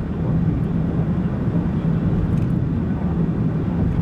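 A car driving at a steady speed, heard from inside: a steady low engine and road rumble with a constant hum.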